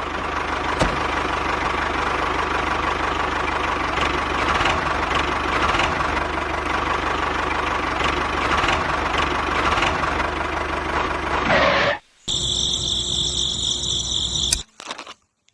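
A motor-driven machine running steadily with a rattling mechanical noise and a held hum. About twelve seconds in it cuts off abruptly to a higher-pitched whine, which stops suddenly near the end.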